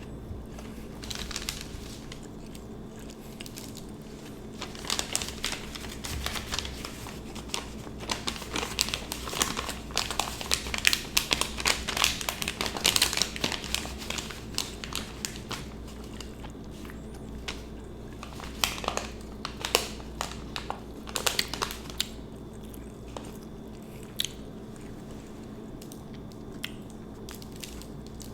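Close-miked crinkling and rustling of a sandwich's paper wrapper as the sub is handled. It comes as a run of short crackly bursts, densest in the middle and thinning out toward the end.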